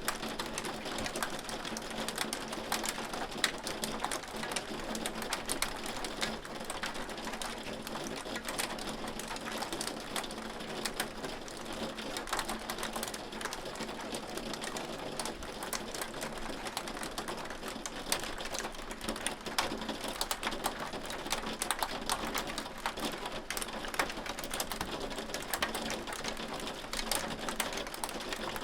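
Hail falling on a hard surface: a dense, irregular clatter of sharp ticks over a steady hiss, with a faint steady hum underneath.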